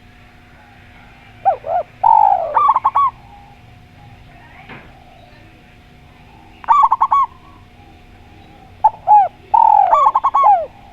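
Spotted dove and zebra dove cooing in three bursts, each a run of quick looping coos with a falling note, against each other. A faint steady hum runs underneath.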